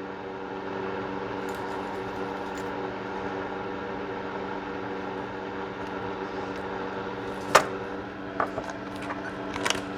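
Steady machine hum made of several level tones, from a running appliance such as a fan or air conditioner. A single sharp click comes about seven and a half seconds in, followed by a couple of lighter ticks.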